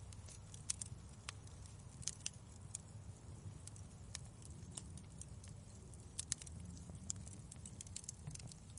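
Wood fire crackling: irregular sharp pops and snaps, a few louder ones, over a low steady rumble.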